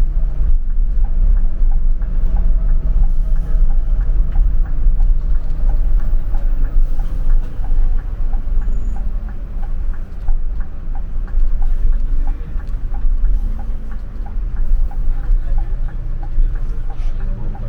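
A moving train or bus heard from inside: a steady low rumble, with a light, even ticking about three times a second through the second half.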